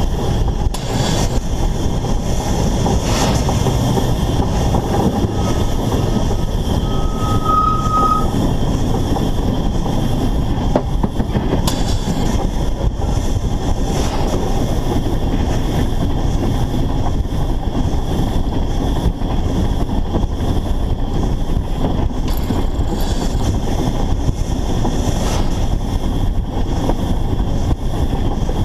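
Narrow-gauge steam locomotive running along the line, heard from a camera mounted on the engine: a steady, loud noise of the running gear and wheels on the rails. About seven seconds in there is a brief high squeal.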